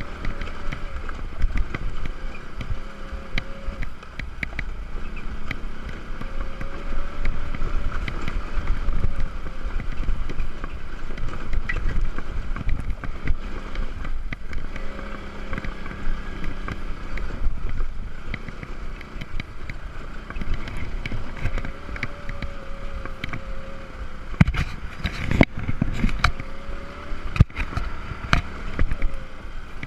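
Scooter running while being ridden over a rough sandy track, its pitch rising and falling with the throttle, with wind rumble on the microphone and knocks from bumps, a cluster of them near the end.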